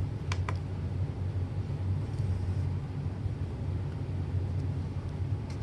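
A steady low rumble or hum, with two light clicks shortly after the start.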